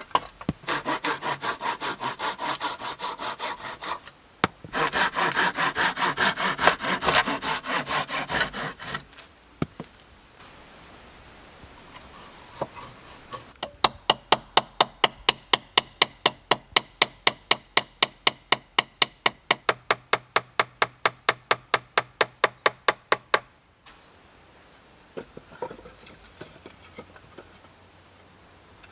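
Hand sawing through wood in quick back-and-forth strokes, with a short break about four seconds in, stopping about nine seconds in. After a quiet spell come about ten seconds of sharp, regular knocks on wood, about three a second.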